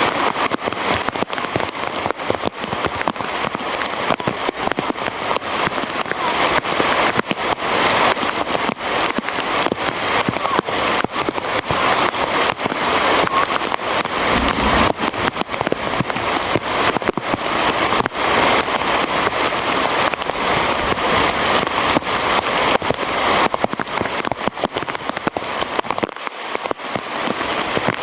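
Heavy rain falling steadily: a dense, even patter of raindrops striking a surface.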